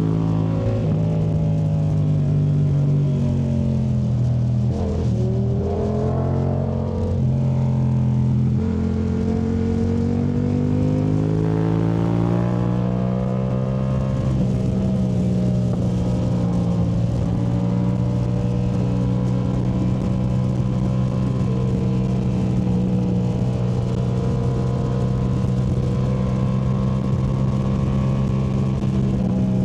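2019 Yamaha MT-07's parallel-twin engine through a Yoshimura AT2 Race exhaust, ridden on a twisty road. The engine note falls as it slows over the first few seconds, wavers and dips, rises again under throttle, then holds a nearly steady pitch for the rest.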